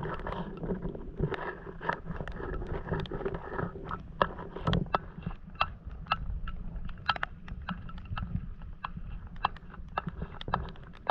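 Wind rumbling on the microphone aboard a boat at sea, with many short sharp ticks and small splashes of water scattered throughout.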